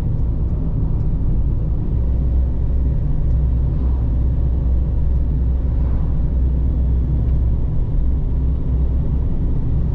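VW Transporter T6.1 camper van driving, with a steady low rumble of engine and road noise.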